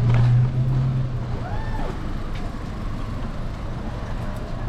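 Street traffic: a motor vehicle's engine hum, loudest for about the first second and then fading.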